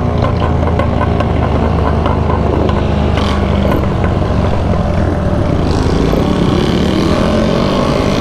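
Motorcycle engines running steadily and loudly in a group ride.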